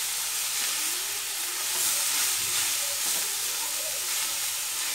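Blanched spinach frying in oil in a steel wok over a high flame, giving a steady sizzling hiss as its moisture steams off, while a spatula turns it.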